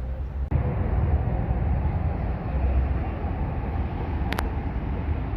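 Steady low rumble of vehicles at a busy parking area, with a brief high tick about four seconds in.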